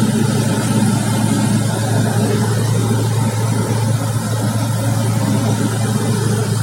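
An engine running steadily: a constant low hum with a fuller band above it over a wash of noise, holding at one level without revving.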